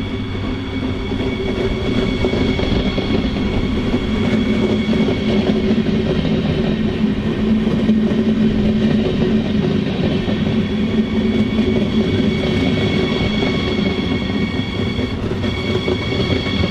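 Siemens Desiro HC (class 462) electric multiple unit passing close by on the rails, its wheel rumble growing over the first two seconds. Steady high whine over the rolling noise.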